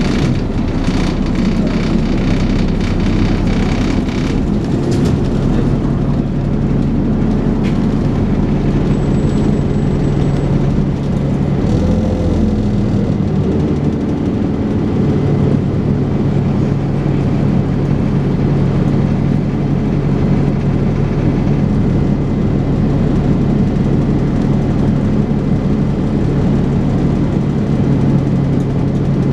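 Dennis Trident 2 double-decker bus engine running under way, a loud steady drone whose pitch shifts about twelve seconds in and then holds one steady note.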